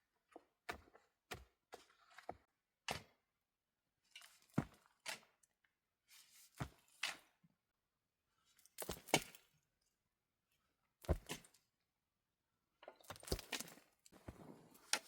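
A dozen or so irregular knocks and thunks, one at a time with pauses between, turning into a denser clatter near the end.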